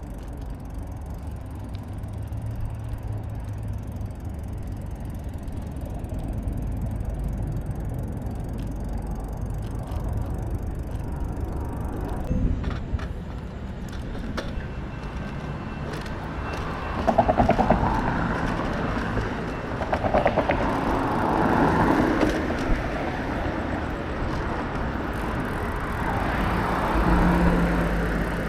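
Street traffic and road noise heard while riding a bike through a city, over a steady low rumble, with louder passing sounds about two-thirds of the way through and again near the end.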